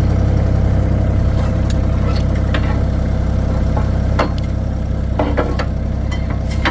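Engine idling steadily, with a few sharp clicks and knocks over it; the loudest comes about four seconds in.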